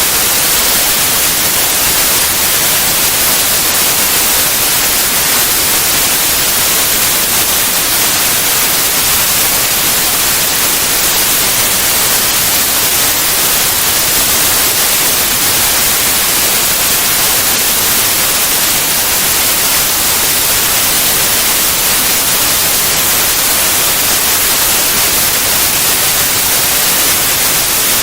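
White noise: a steady, even hiss, brightest in the high end, unchanging throughout.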